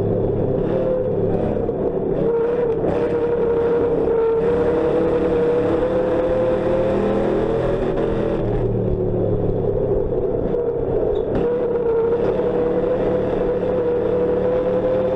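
Ford Crown Victoria race car's V8 engine heard from inside the stripped, roll-caged cabin, running hard under racing load. Its pitch sags a little and climbs again several times as it goes around the track.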